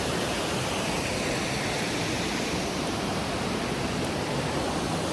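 Waterfall crashing into its pool: a steady, full rush of falling water with no let-up.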